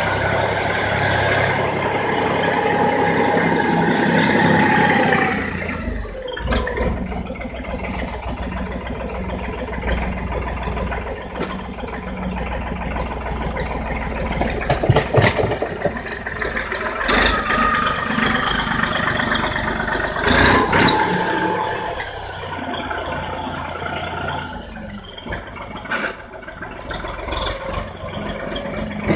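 Erkunt 70 tractor engine running while its manure spreader rattles and clanks. The engine is louder for the first five seconds or so, then falls off, leaving the spreader's rattling with scattered knocks.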